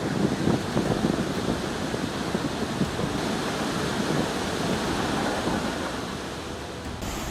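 Floodwater rushing in a torrent: a steady, dense churning noise of fast-moving water, with an abrupt change in the sound near the end.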